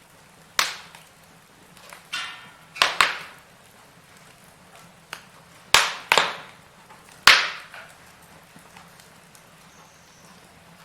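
Burning firewood crackling, with several sharp, loud pops scattered unevenly through it and a short hiss about two seconds in.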